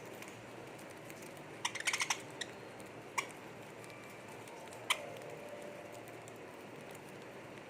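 Budgie pecking at and cracking its food with its beak: a quick run of sharp clicks about two seconds in, then single clicks spaced a second or so apart.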